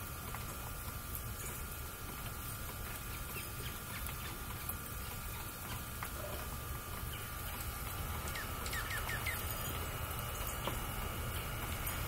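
Quiet outdoor ambience with a low rumble and a faint steady hum, scattered light ticks, and a quick run of four or five short bird chirps a little past the middle.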